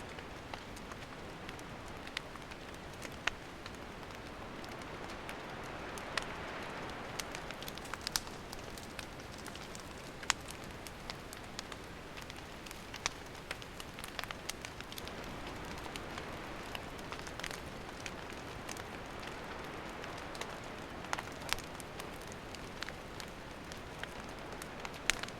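Wood campfire burning, a steady soft hiss with irregular sharp crackles and pops from the burning wood.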